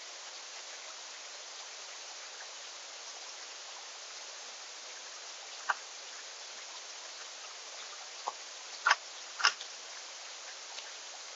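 Steady outdoor hiss at a backyard bird feeder, broken by a few sharp clicks. Three of the clicks come in the last third, and the two loudest fall about half a second apart.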